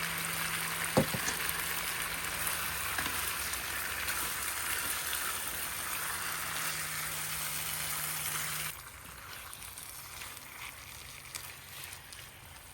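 Heavy rain falling, a steady hiss, with a single sharp knock about a second in. The hiss drops away suddenly about nine seconds in, leaving a much quieter background.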